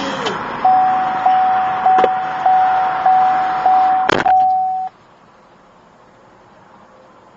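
A steady electronic beep repeating about one and a half times a second over a hiss, with a sharp click near its end; it cuts off suddenly about five seconds in, leaving a faint hiss.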